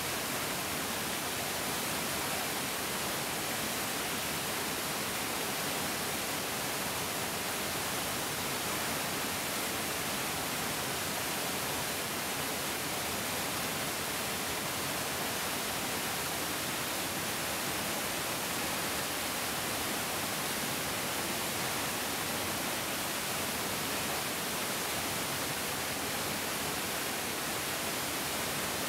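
A mountain stream's water rushing steadily over rocks, an even, hissing rush with no breaks or changes.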